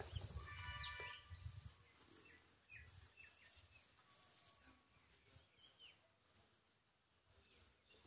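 Faint bird calls. About half a second in comes a quick run of about eight short, high chirps with a brief call under them that has an even ring, followed by a few scattered, softer notes.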